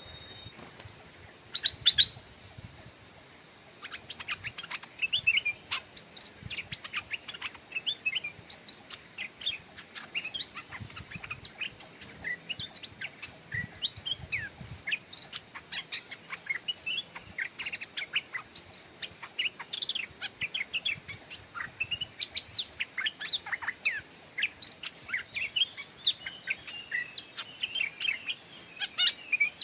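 Stripe-throated bulbuls calling, a couple of loud calls about two seconds in, then a dense, near-continuous stream of short, quick chirping notes: a caged decoy bulbul's calls used to lure wild bulbuls in.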